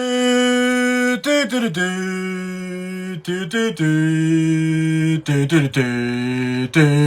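A voice holding long sung notes, each about a second or more, stepping up and down in pitch with short sliding breaks between them.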